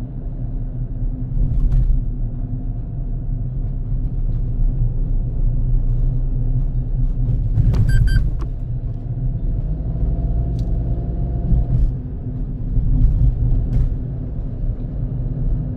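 Car driving along a road: a steady low rumble of engine and tyres, with a short high-pitched tone about eight seconds in.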